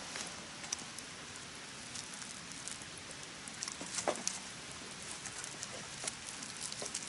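Campfire crackling: scattered small snaps and pops over a steady low hiss, with a sharper pop about four seconds in.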